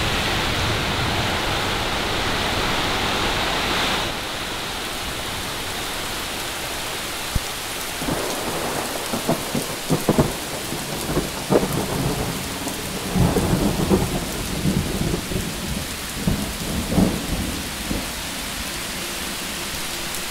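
Mountain thunderstorm: steady heavy rain, dropping to a softer patter about four seconds in. Thunder rolls and rumbles through the middle of the stretch.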